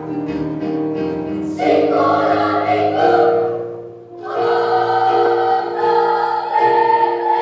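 Children's choir singing a church song in held chords, with a short break between phrases about four seconds in.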